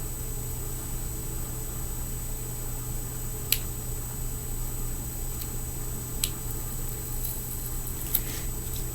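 A few small sharp clicks, about three seconds apart, as a fingerboard is handled while its old foam grip tape is being worked off, over a steady electrical hum.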